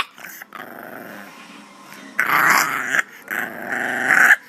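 Bulldog puppy growling: a quieter, low growl for the first two seconds, then two louder, longer growls, one about two seconds in and one lasting about a second just after three seconds.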